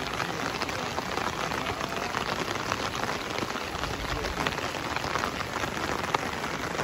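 Steady rain falling on a wet road, heard as an even hiss dotted with many small drop ticks.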